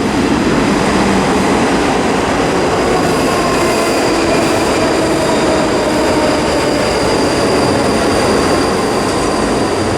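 Class 334 Juniper electric multiple unit pulling into an underground platform: a steady loud rumble of wheels and running gear with a thin high squeal held over it, echoing off the station walls.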